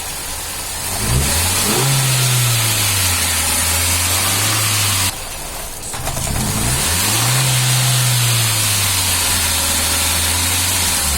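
Hyundai Xcent engine revved twice, each time the pitch climbing then sagging back over a few seconds before dropping abruptly to a lower idle. The engine is misfiring.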